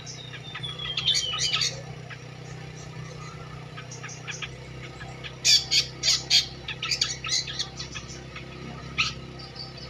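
Long-tailed shrike (cendet) singing: a falling whistle near the start, then harsh, scratchy notes, with a run of loud, sharp notes in the middle and one more near the end. A steady low hum runs underneath.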